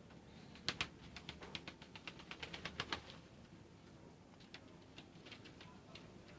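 Lahore pigeons' wings clapping and flapping during mating: a quick run of sharp clicks, about eight or nine a second, lasting a little over two seconds, then a few scattered clicks.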